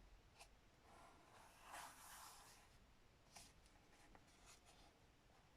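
Faint handling of paper and card: a soft rub and rustle about a second or two in, with a few light ticks.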